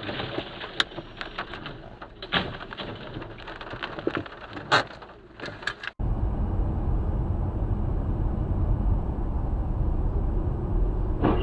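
Dashcam audio of road traffic: several sharp knocks and clatters over road noise, then an abrupt cut about halfway through to a steady low vehicle rumble.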